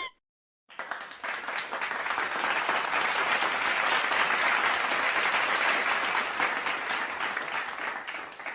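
Crowd applause sound effect: many hands clapping, starting about a second in, building up and fading away near the end.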